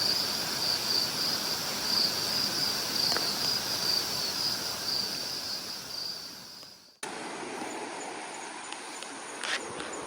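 Insects chirping in a steady, high, slightly pulsing trill over outdoor background hiss. The trill fades out about seven seconds in, and a quieter outdoor ambience with a faint tap follows.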